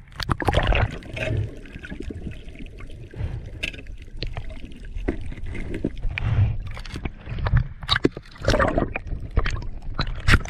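Ocean water splashing and sloshing close to the microphone as a swimmer strokes through it, in irregular splashes over a low rumble.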